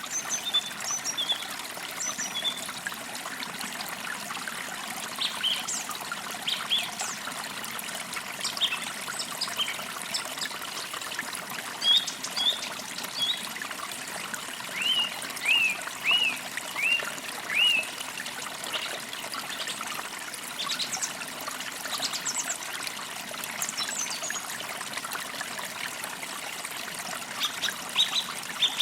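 Forest creek trickling and burbling steadily, with birds chirping over it; about halfway through, one bird repeats a short downward-sweeping call five times.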